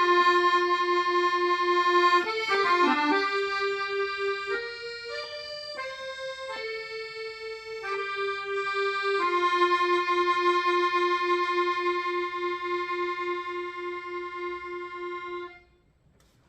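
Solo accordion playing a slow melody in sustained reedy notes, closing on one long held note of about six seconds that stops about fifteen seconds in.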